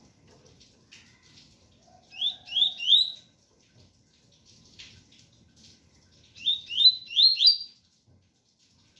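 Double-collared seedeater (coleiro) singing the "tui-tui" song type: two short phrases of quick rising whistled notes, three in the first and four in the second, a few seconds apart.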